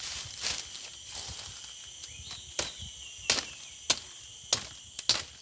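A series of sharp knocks, evenly spaced about every two-thirds of a second and louder from about halfway in, over a steady high-pitched insect drone.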